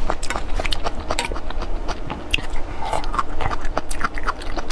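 A person chewing a mouthful of noodles, giving quick, irregular wet mouth clicks and smacks.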